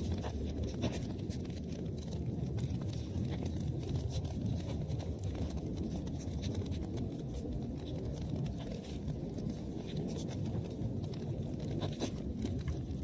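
Wood fire burning in a fireplace: a steady low rush from the flames with frequent small crackles and pops from the burning logs.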